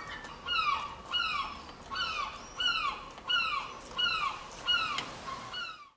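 A bird calling over and over: a run of short calls that each slide down in pitch, about one and a half a second, cut off abruptly near the end.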